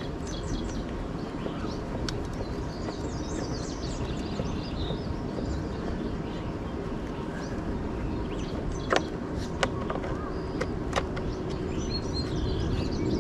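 Outdoor background noise with a steady low rumble and birds chirping now and then. A few sharp clicks come about two-thirds of the way through.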